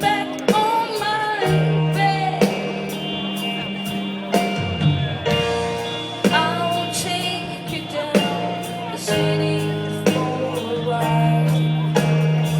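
A live rock band playing a song, with a steady drum beat, sustained low bass notes and singing.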